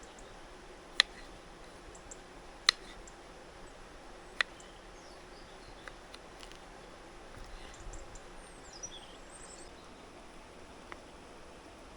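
Steady rushing of river water, with three sharp snaps about a second and a half apart in the first half and a bird twittering briefly after the middle.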